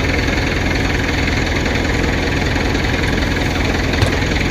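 Heavy machine engine idling steadily with an even, pulsing rumble, with one faint click about four seconds in.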